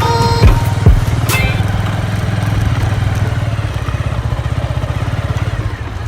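Motorcycle engine running steadily, its rapid even firing pulses growing slowly fainter near the end, with two thumps in the first second. The last notes of background music die away early on.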